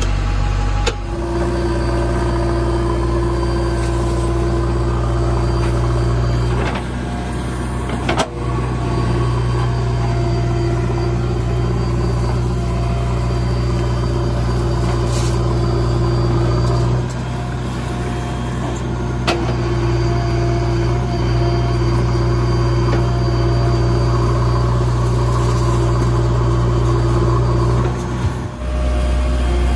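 JCB backhoe loader's diesel engine running steadily under way, its low note shifting several times (around 7, 17 and 28 seconds in) as the load changes, with a steady whine over it and a few short clicks.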